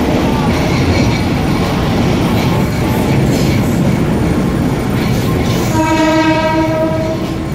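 Diesel train running along the track, heard from inside the carriage: a steady rumble and clatter of wheels and engine. About six seconds in, the train's horn sounds one long blast lasting under two seconds.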